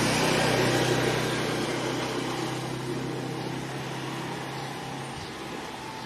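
An engine running steadily, loudest about a second in and then slowly fading, as if moving away.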